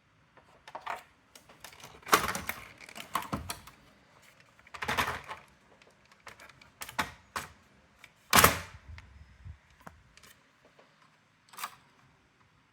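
Irregular clicks and clattering from the parts of a Brother AX-425 electronic typewriter being handled and worked on during disassembly. The loudest clusters come about two, five and eight seconds in.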